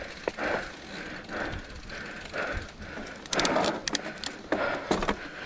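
Mountain bike being pushed on foot up a wet, slippery climb: footsteps on the muddy ground, with a quick run of sharp clicks from the bike about halfway through.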